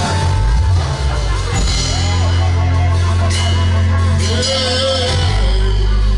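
Worship band music with long held deep bass notes and drums, and gliding melodic lines above.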